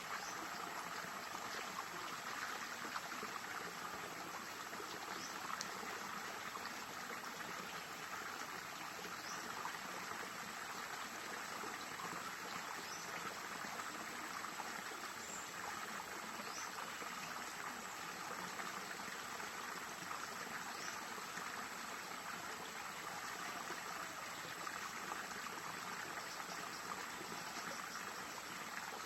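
Small stream flowing steadily, an even rush and trickle of water, with a few faint high chirps now and then.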